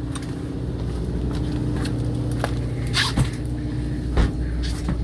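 Fishing boat's motor running steadily with a low hum, with a few scattered clicks and knocks over it.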